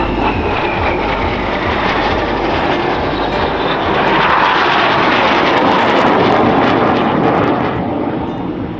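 Rolls-Royce Adour turbofans of BAE Hawk Mk65 jet trainers flying past, a loud jet rush that builds to its loudest around the middle and fades near the end, with a faint whine falling in pitch in the first couple of seconds.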